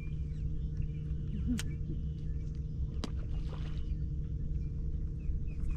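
A steady low motor hum under a rumble of wind, with a few faint high chirps from birds and a couple of sharp clicks. The hum stops near the end.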